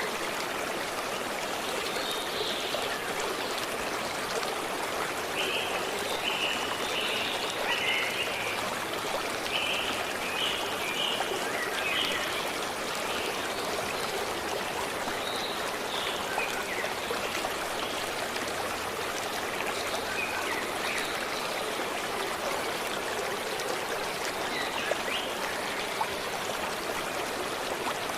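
Forest stream running steadily, with short high bird chirps repeated over it, busiest in the first half.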